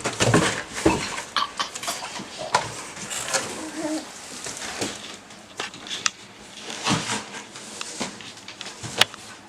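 A toddler handling and dragging a cardboard box, with scattered knocks, scrapes and rustles, and a few short babbling sounds from the child.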